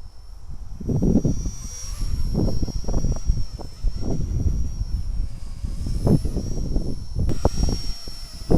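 Blade 200 S electric RC helicopter's motor and rotor giving a high, steady whine that wavers slightly in pitch, with gusts of wind buffeting the microphone.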